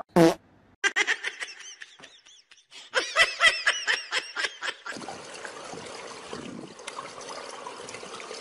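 A brief, loud falling yelp at the very start, then a person laughing in quick repeated bursts in two runs. After about five seconds the laughter gives way to a steady outdoor background hiss.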